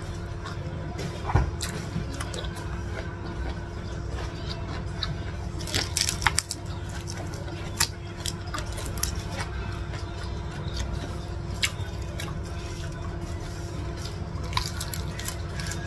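Close-up mouth sounds of eating: wet chewing and smacking with several sharp clicks, over a steady low hum.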